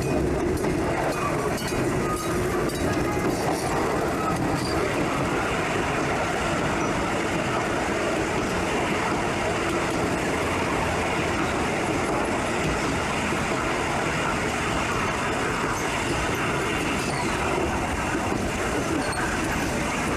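Passenger train running on the line, a steady noise of wheels on rails.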